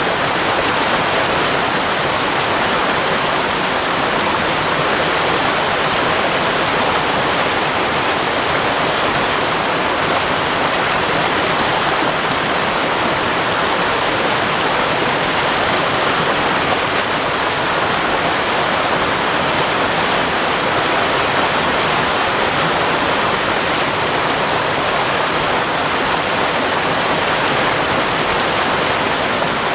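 Waterfall cascading steadily over rock, a constant even rush of falling water.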